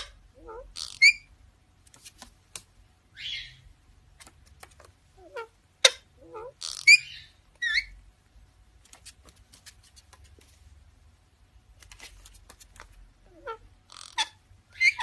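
A bird giving short, squeaky chirps and whistled calls in clusters with pauses between them, along with a few sharp clicks.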